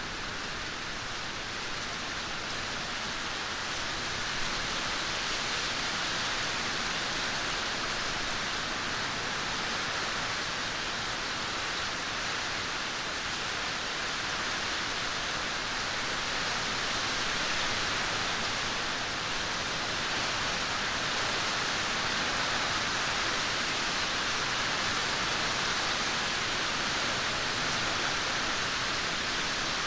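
Steady rain: a continuous even hiss without distinct drops or thunder.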